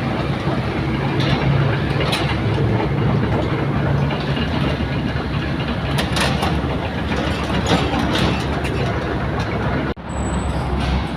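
An engine running steadily with a low hum, with scattered knocks and rattles over it. The sound drops out for an instant near the end.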